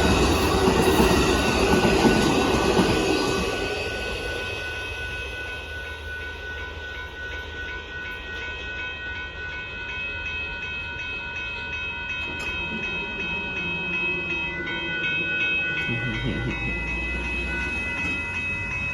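Amtrak passenger train passing over a road grade crossing: loud for the first three or four seconds, then fading as it moves away. A steady ringing, typical of the crossing's warning bells, carries on throughout, and a low rumble joins about sixteen seconds in.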